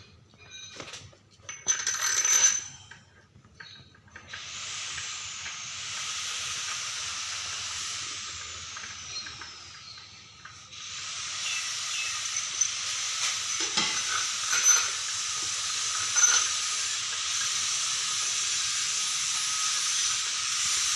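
A few light metallic clinks, then a jet of air hissing steadily, stopping briefly about halfway through and starting again louder.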